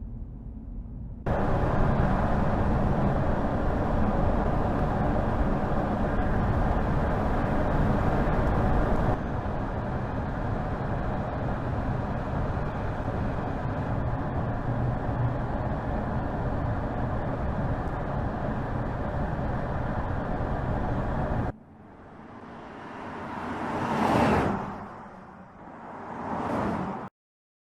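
Steady road and tyre noise of a car driving, then two vehicles passing by, each swelling to a peak and falling away.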